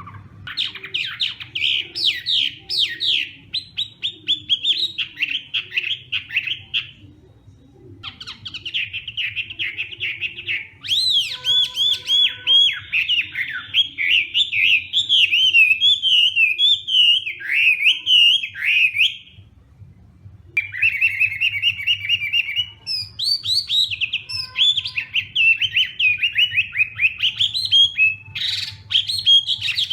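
Chinese hwamei (hoạ mi) singing: long runs of rapid, varied whistled phrases. The song breaks off briefly about seven seconds in and again about twenty seconds in.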